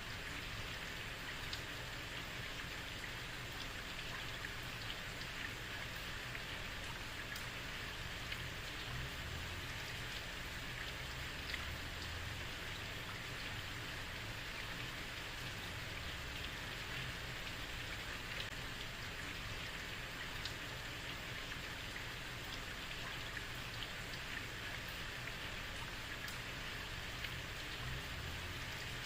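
Heavy rain falling steadily on a street, an even hiss with scattered drop ticks and a low rumble underneath.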